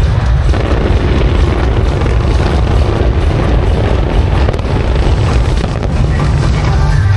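Fireworks display in full swing: a continuous mass of deep booms with crackling bursts above them, and the show's music faintly underneath.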